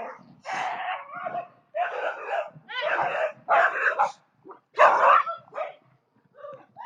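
A dog barking repeatedly: about five drawn-out barks less than a second apart, then a shorter one near the end.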